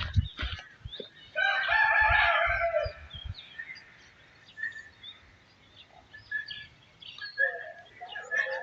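A rooster crowing: one long call of about a second and a half starting about a second in, then a second, fainter crow near the end. Small birds chirp throughout, and there are a few low thumps at the start.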